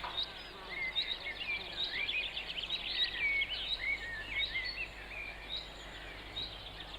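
Small birds chirping and twittering, many short sweeping calls and quick trills overlapping, over a faint steady background hiss.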